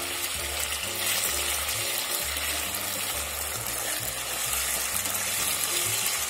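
Slices of starch-coated pork liver sizzling steadily in hot oil in a frying pan as they are turned over with chopsticks.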